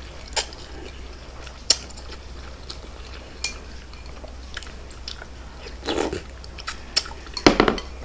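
Close-miked chewing of a mouthful of pho noodles, with scattered clicks and taps of a plastic fork against a glass bowl. The loudest clatter comes near the end.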